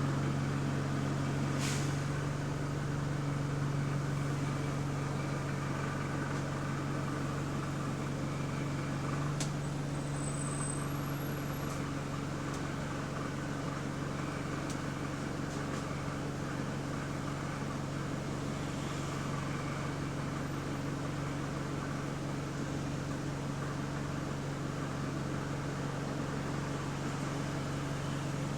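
Steady drone of a bus heard from inside the cabin: the engine hum and noisy air-conditioning running together, with a couple of sharp clicks and rattles. The exhaust leak is not plainly heard from inside.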